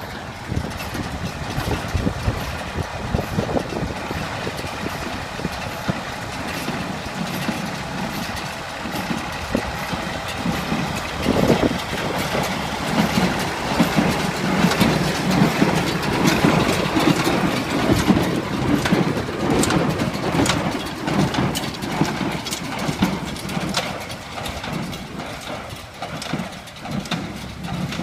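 Massey Ferguson 35X tractor's three-cylinder diesel engine running steadily while it drives a Ferguson baler, with a regular knocking from the baler over the engine drone.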